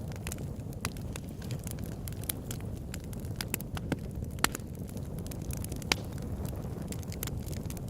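Campfire crackling steadily over a low rumble of flames, with a couple of louder sharp pops from the burning wood in the second half.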